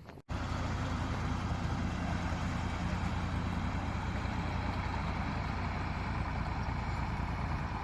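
IMT tractor's diesel engine running steadily at a constant speed, starting abruptly a moment in as the footage cuts in.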